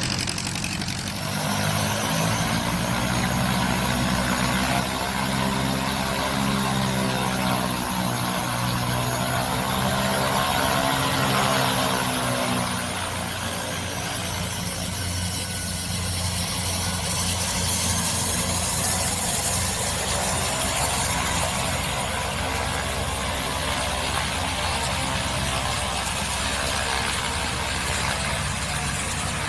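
Air Tractor AT-402T's Pratt & Whitney PT6A turboprop running, with a high turbine whine over the propeller's drone. The pitch sweeps up and down over the first dozen seconds, then holds steady.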